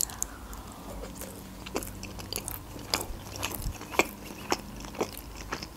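A woman chewing a mouthful of baked sushi roll close to the microphone: soft, irregularly spaced mouth clicks as she chews.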